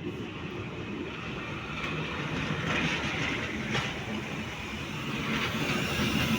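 Train running past on the rails: a steady rumble of wheels with occasional short knocks, growing louder toward the end.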